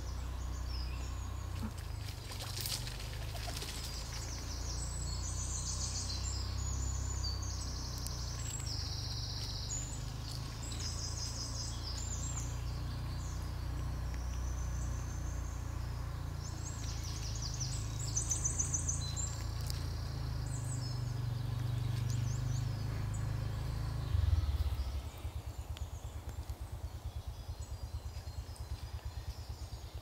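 Small woodland birds singing short, high, repeated phrases over a steady low rumble. The rumble changes near the end, giving way to a faint rapid flutter.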